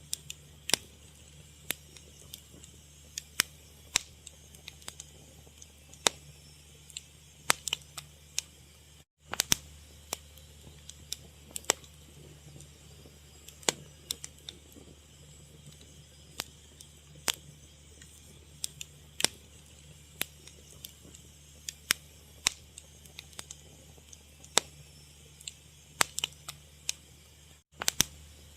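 Fire crackling: sharp pops and snaps at irregular intervals over a low steady hum. The sound drops out for an instant twice.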